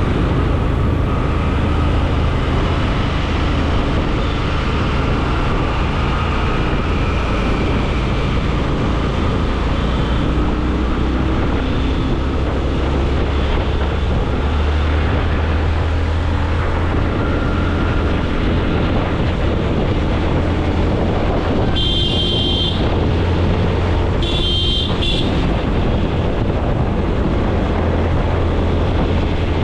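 Steady road traffic and vehicle engine rumble, with two short vehicle horn toots in the last third.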